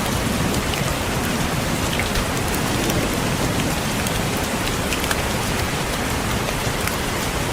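Steady rain falling, with many small drops tapping against a window pane.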